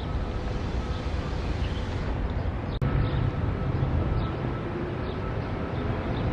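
SEPTA electric train running at the station: a steady rumble with a thin, steady whine over it. The sound drops out for an instant near the middle and comes back with a heavier rumble.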